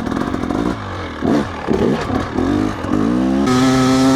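Dirt bike engine revving up and down in quick swings while riding through deep ruts and slippery mud, then holding a steady higher note about three and a half seconds in.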